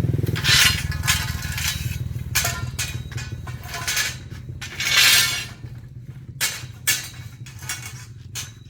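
Metal scraping and clinking in a series of short irregular strokes, over a low steady hum that fades after the first second.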